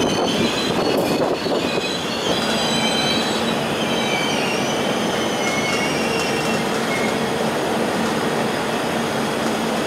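Passenger train running on the rails: a steady rumbling rush, with thin high-pitched wheel squeal that drifts slightly lower and fades out about seven seconds in.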